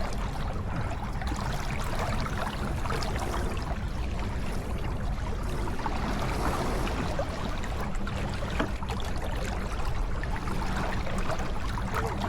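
Water rushing and splashing along the hull of a J24 sailboat under sail, over a steady low rumble.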